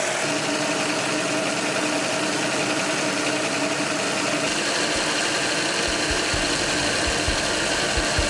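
Miniature model V-16 engines, 24 cc each, running steadily at an even speed, with a few low bumps in the last couple of seconds.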